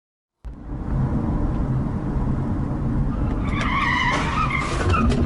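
Car road and engine rumble cutting in abruptly about half a second in, with tyres squealing in a skid for over a second past the middle.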